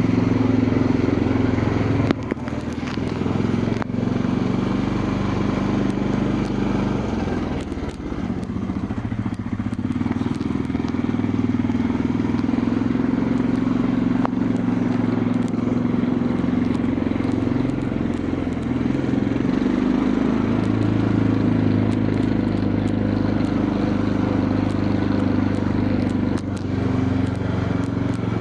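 Quad bike engine running while riding, its note stepping up and down as the throttle changes, with a few brief clicks and rattles.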